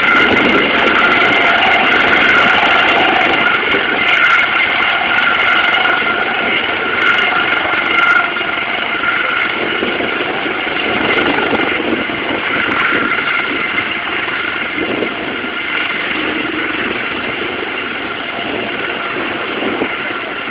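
Helicopter running steadily: a constant high whine over a rushing engine noise.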